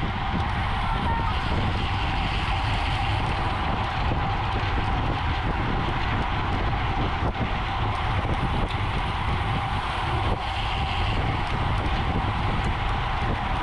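Steady wind rushing over the microphone of a racing bicycle riding at speed, with an even hiss of tyres on the road.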